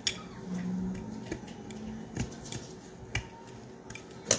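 Scattered sharp clicks and taps of a glass jam jar and its stuck metal lid being handled and worked at by hand, with a louder clatter at the very end; the lid is held fast by its vacuum.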